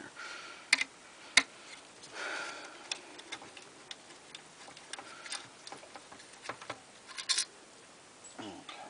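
Irregular sharp metallic clicks and brief scrapes from screws and metal parts of a burnt-out box fan motor being handled and taken apart, the loudest click about a second and a half in.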